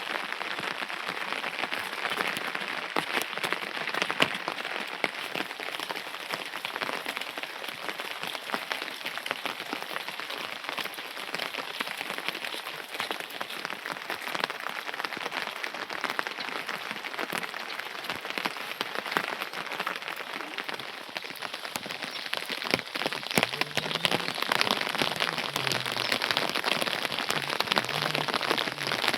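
Steady rain falling, with a dense run of fine drop ticks over an even hiss.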